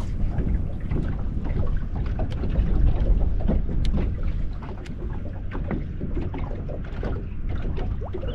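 Wind buffeting the microphone with a steady low rumble, and water lapping and slapping against a small boat's hull in short irregular splashes.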